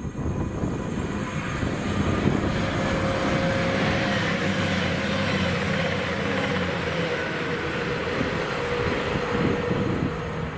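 Diesel train passing along the main line: a steady rush of wheel and engine noise that builds about two seconds in and holds, with a faint hum running under it.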